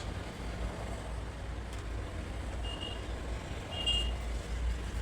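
Steady low background rumble, with two short high-pitched beeps about three and four seconds in.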